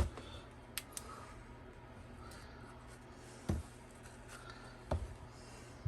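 Quiet handling noises: light rustling with a few soft separate taps and knocks, as hands handle ball python eggs.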